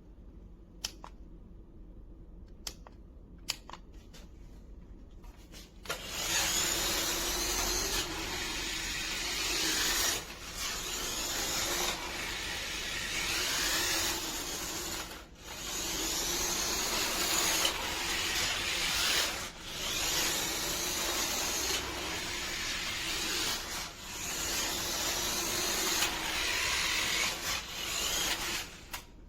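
Toy RC monster truck's electric drive motor and tyres running over rough ground, in runs of a few seconds broken by brief dips. It starts about six seconds in, after a few faint clicks.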